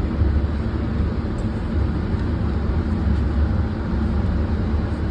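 Steady low rumble of an indoor shooting range's ventilation system, with no gunshots.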